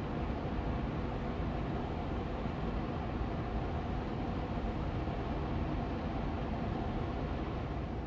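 Austin Air Allergy Machine air purifier fan running steadily on medium speed: an even hum of rushing air, strongest in the low end, with a faint steady tone.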